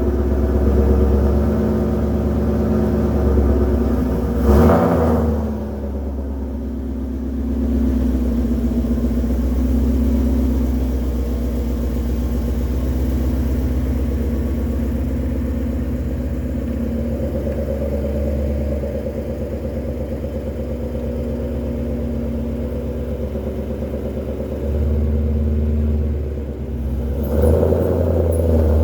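2020 Shelby GT500's supercharged 5.2-litre V8 idling steadily through its Borla exhaust, with a short sharp burst about four and a half seconds in and a louder, rougher stretch near the end.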